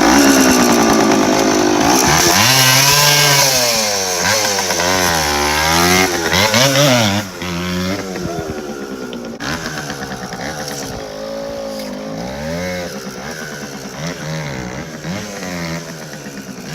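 Small two-stroke moped engine revving up and down over and over as the bike is ridden hard, close and loud at first, then dropping back and quieter from about halfway through.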